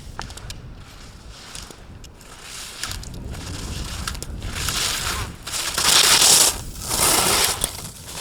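Ski edges carving and scraping on hard-packed snow as a slalom racer passes, three hissing turns about a second apart that build to the loudest about six seconds in, with scattered sharp clicks.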